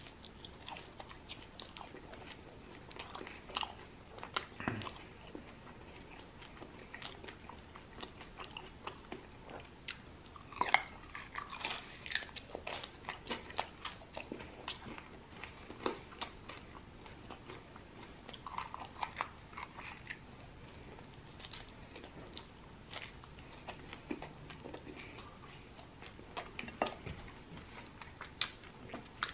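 A person biting into and chewing sauce-covered chicken wings close to the microphone, with irregular small clicks throughout.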